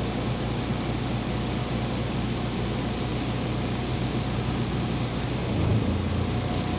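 Inside a MAZ 203.065 city bus on the move: steady engine hum and road noise, the low engine note shifting and briefly swelling about five and a half seconds in.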